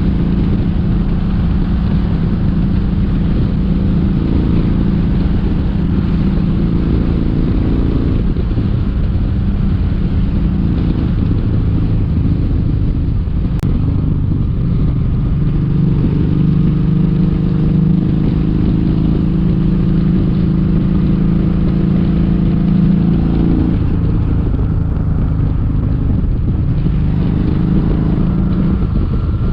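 Kawasaki Vulcan 1700 Vaquero's V-twin engine running steadily as the motorcycle cruises along the road.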